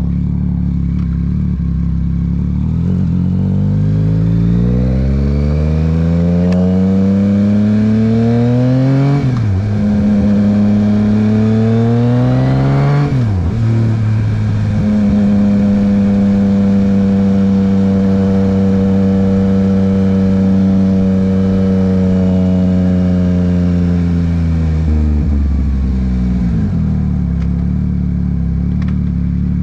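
2023 Yamaha MT-09's inline three-cylinder engine through a Dominator HP3 exhaust with the dB killer removed, pulling away and accelerating. The revs climb, drop sharply at two upshifts, hold steady for about ten seconds at a cruise, then fall back toward idle as the bike slows.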